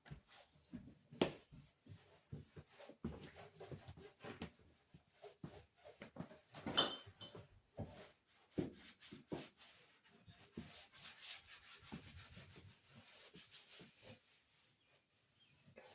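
Irregular rubbing and scraping of hand cleaning work, with many small knocks and taps. A louder rasping scrape comes about seven seconds in.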